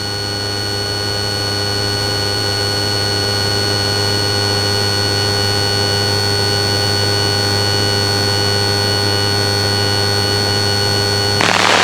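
Steady electronic hum and whine with several held tones, the cabin and intercom noise of a patrol aircraft's on-board recording, slowly growing louder. Near the end it cuts abruptly to a rougher radio-noise texture.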